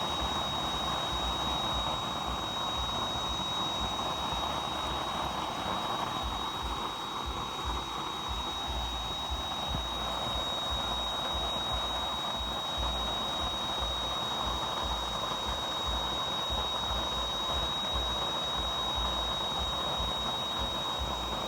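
Used-engine-oil burner running, a steady rushing noise of the flame with a low rumble and a thin, steady high whine over it.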